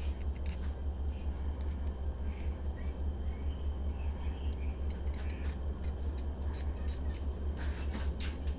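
A steady low hum, with faint scattered small clicks and a quick cluster of sharper clicks near the end.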